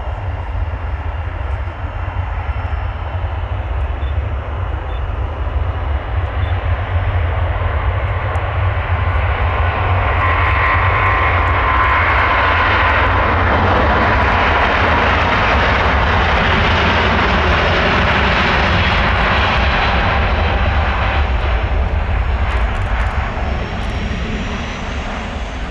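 Airbus A350-1000's Rolls-Royce Trent XWB-97 turbofans at high power as the jet departs, swelling to a loud peak about halfway through with a whine over the roar, then easing off near the end.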